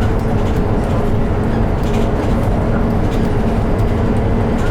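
Volvo B8RLE city bus running steadily on the road: a continuous diesel engine and road drone with a steady hum, and light clicks and rattles over it.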